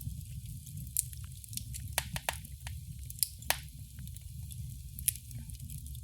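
Wood fire in a fireplace crackling: irregular sharp pops and snaps over a steady low rumble, with louder pops about two, three and a half and five seconds in.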